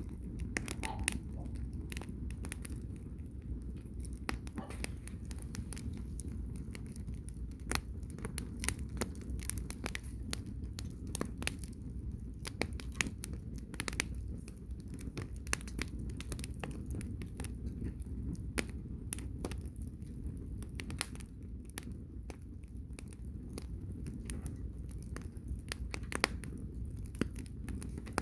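Wood bonfire crackling and popping: irregular sharp snaps of burning logs over a steady low rumble.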